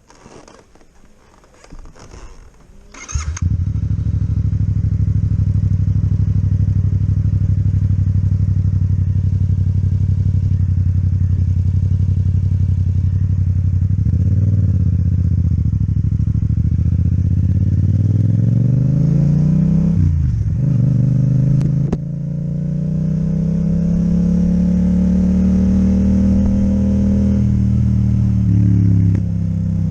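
Yamaha MT-07 parallel-twin with an Akrapovic exhaust, starting up about three seconds in after a few light clicks, then running. Its engine note climbs in pitch as it pulls away, drops sharply around twenty seconds in as the revs fall and pick up again, then climbs once more.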